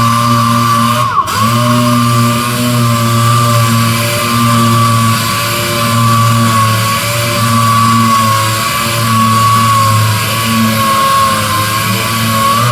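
Power sander running steadily with a high whine, sanding a surface down for primer. About a second in it briefly slows and picks back up, and it stops at the very end.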